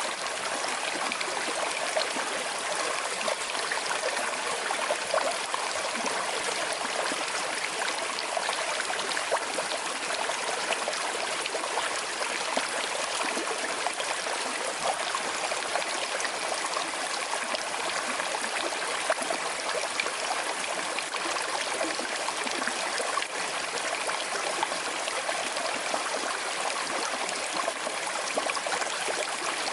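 Small, slow-flowing river running steadily over stones, a continuous water rush with fine trickling and splashing detail.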